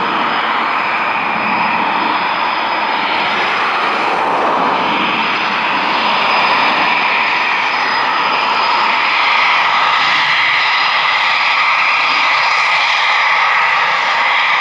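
Eurofighter Typhoon's twin EJ200 turbofan jet engines running loud and steady: a broad rush with a faint high whine over it, growing a little louder about six seconds in.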